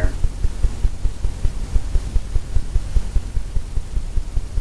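Paintbrush dabbing oil paint onto a stretched canvas: quick, irregular low thuds, several a second, over a steady low hum.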